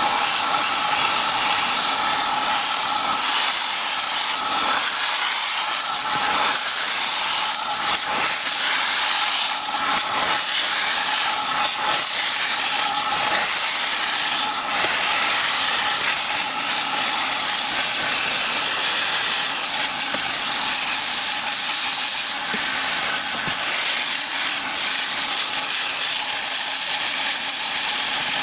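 Steady, loud hiss of detailing cleaning equipment spraying or blowing, with a faint steady motor whine underneath.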